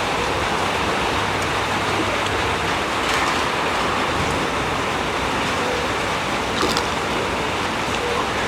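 Heavy rain falling steadily, a constant hiss, with two faint clicks partway through.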